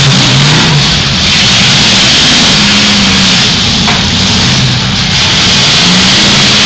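Engines of several demolition derby cars revving together, their pitch rising and falling over and over as the cars maneuver and push against each other.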